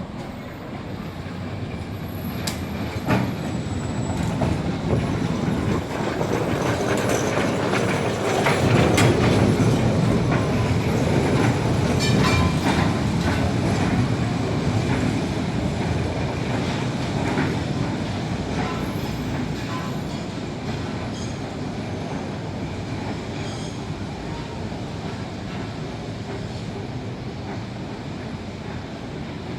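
Lisbon funicular car running on its rails: a steady rumble with wheel clicks and a few brief high squeals. It grows louder over the first third, then slowly fades as the car moves away.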